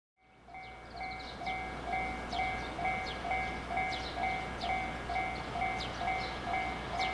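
Electronic railway warning bell ringing a steady, repeated two-tone ding about twice a second, the alarm for an approaching train.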